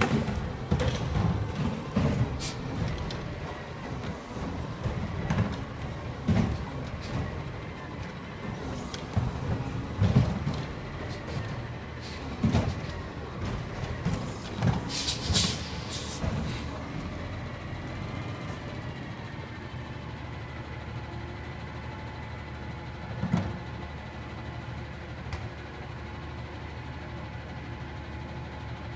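Garbage truck running while collecting yard waste, with irregular thumps and clanks over the engine's rumble. Several short loud air hisses come about halfway through, and after them the truck settles into a steadier hum.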